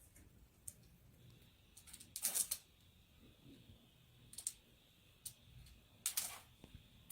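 Faint, scattered clicks and two brief scratchy rustles, over a faint steady high whine.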